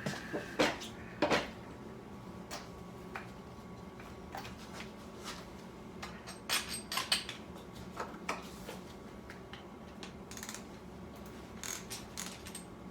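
Hand work on a motorcycle: metal tools and parts clinking and knocking at irregular intervals, with a cluster of clicks about halfway through.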